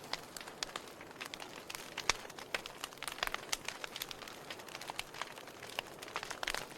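Wood fire in a fireplace crackling: irregular sharp pops and snaps over a soft hiss, with one louder pop about two seconds in.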